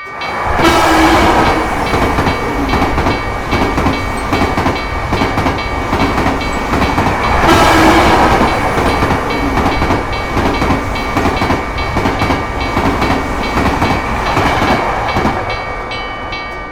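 A train passing at speed, a rushing rumble with wheels clattering on the rails. It swells about a second in and again near eight seconds, then eases off near the end, while a railroad crossing bell keeps ringing underneath.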